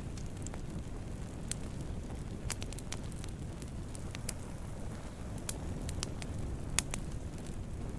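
Wood campfire burning: a steady low rumble of flames with scattered sharp crackles and pops, the loudest pop about seven seconds in.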